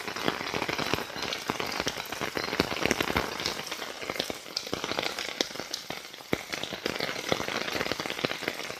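Rain falling, its drops striking an open umbrella close overhead in a dense, irregular patter.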